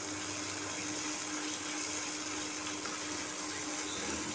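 Spiced onion-tomato masala frying gently in oil in a nonstick pan as it is stirred with a spatula: a steady sizzling hiss over a low steady hum.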